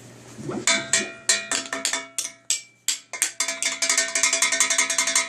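Metal cooking pots beaten as drums, each hit ringing out. The strikes come irregularly at first, then in a fast run of roughly eight a second for the last second and a half.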